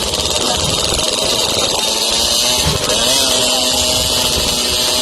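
Motocross bikes' engines running and revving, with the pitch wavering up and down.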